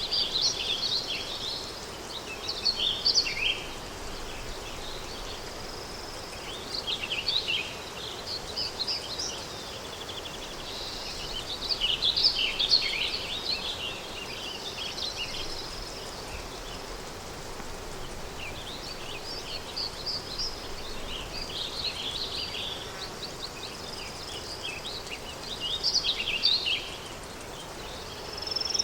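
Countryside ambience: small songbirds chirping and twittering in bursts of quick high notes every few seconds, over a steady soft wind-like hiss.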